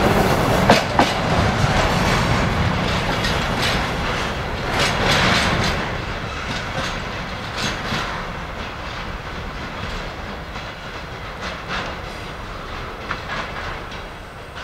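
Freight train wagons rolling on the rails, their wheels clicking and knocking over the rail joints as the train passes and then moves away, the sound fading steadily.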